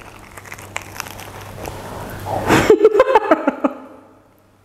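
Biting into and chewing a toasted pita sandwich, with crisp crunching clicks. About two and a half seconds in comes a short burst of wordless vocal sound, a murmured reaction to the taste, before it goes quiet.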